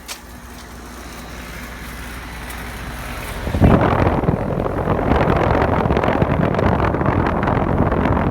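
Outdoor heat pump unit running close up: its fan and compressor noise grows over the first few seconds, then becomes a loud, steady rush of air noise at the microphone about three and a half seconds in.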